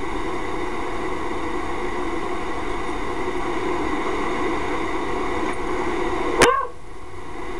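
Steady mechanical drone, broken about six seconds in by a single short, sharp dog yelp that falls quickly in pitch.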